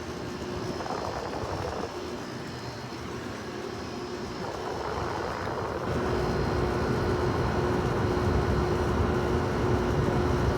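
Haier 5,200 BTU window air conditioner running on high, its fan blowing with a steady hum from the rotary compressor. The sound gets louder about six seconds in, where a steady tone comes in.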